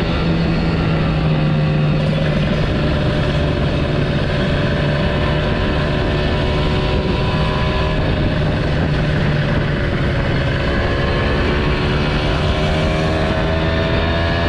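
Kawasaki Ninja motorcycle engine running steadily under way, its pitch drifting gently and rising a little near the end.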